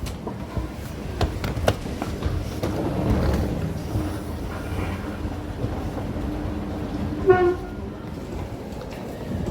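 A vehicle's steady low rumble in motion, with scattered clicks and a short pitched tone about seven seconds in.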